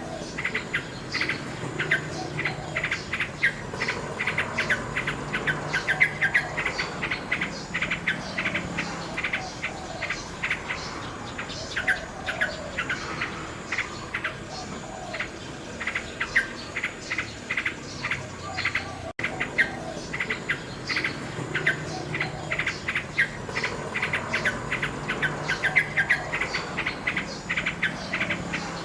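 Nightingale singing: fast, varied runs of chirps and trills, continuous and dense, with a faint low hum underneath and a split-second dropout about nineteen seconds in.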